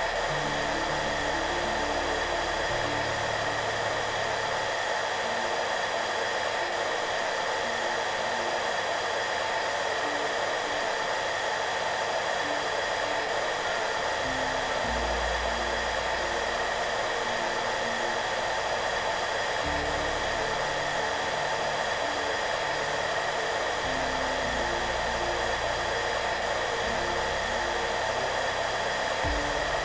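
Hair dryer running steadily, a constant airy hiss with a faint steady motor whine. Soft low music notes sit underneath, changing every few seconds.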